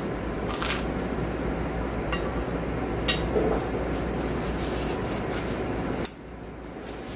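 Eating sounds: a few sharp clinks of cutlery against a dish and some chewing, over a steady room hum that drops off suddenly about six seconds in.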